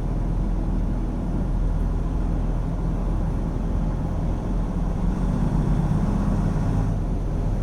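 Semi truck's diesel engine running with road noise, heard from inside the cab; steady, swelling slightly about five seconds in.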